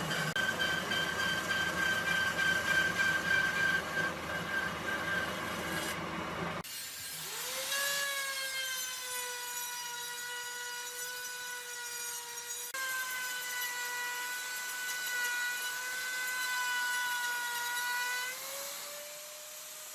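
Electric power tool working wood: first a noisy cutting or sanding sound, then the tool's motor spinning up to a steady high whine. The whine breaks off once partway through, and its pitch climbs near the end.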